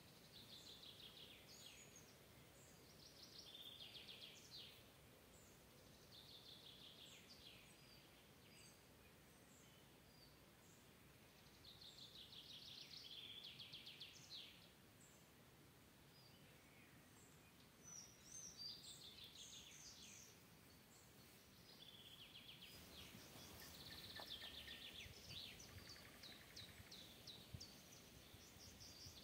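Songbirds singing: short, high trilled phrases of rapid notes, repeated every few seconds and overlapping more often near the end, over a faint steady hiss.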